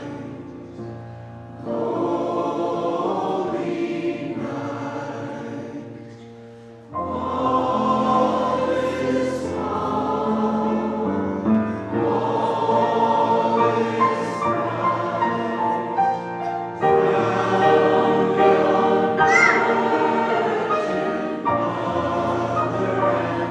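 Choir singing a slow hymn in long held notes; the singing thins and fades, then comes in louder and fuller about seven seconds in.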